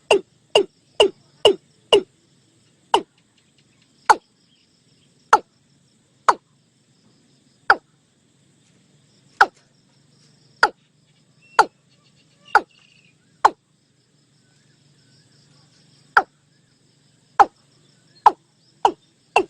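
Watercock calling: a series of short, sharp notes, each dropping quickly in pitch. They come about twice a second at first, slow to roughly one a second, pause, then speed up again near the end. Faint insects hum underneath.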